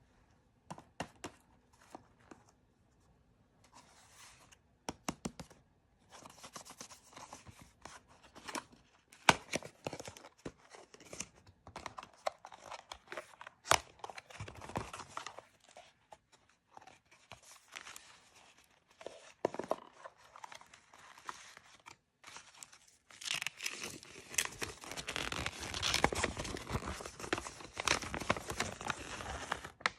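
Plastic blind-bag packaging being torn open and crinkled by hand, with scattered sharp clicks and rustles, and a steady stretch of continuous crinkling over the last several seconds.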